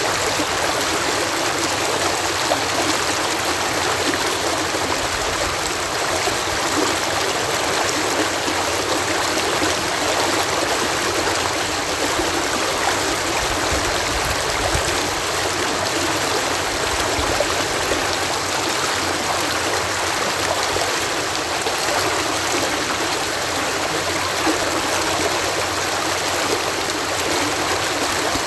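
Water pouring over a canal lock in a steady, even rush of falling and splashing water.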